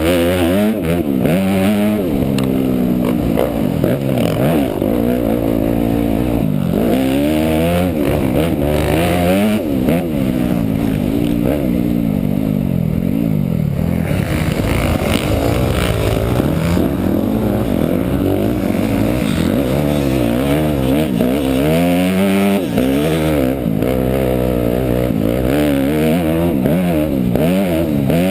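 Motocross dirt bike engine being ridden hard, revving up and falling back again and again as the rider opens and closes the throttle and shifts through the gears.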